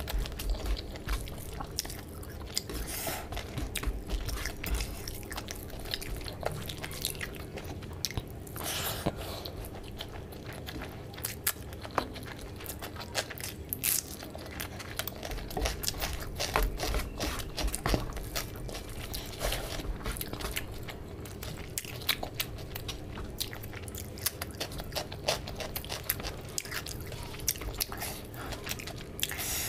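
Close-miked chewing of mouthfuls of rice and boiled fish curry eaten by hand: a dense, irregular run of short clicks and mouth noises, with fingers mixing rice and gravy on the tray between bites.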